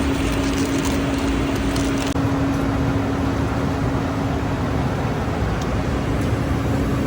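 Steady engine and airflow noise inside a private jet's cabin in flight, with a constant low hum.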